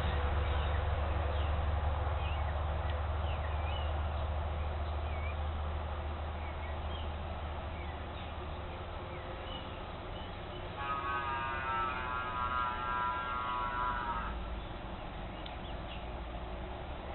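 Wild birds calling with many short chirps and slurred whistles over a low steady rumble that slowly fades. About eleven seconds in, a nasal, wavering call with a rich buzzy tone is held for about three and a half seconds.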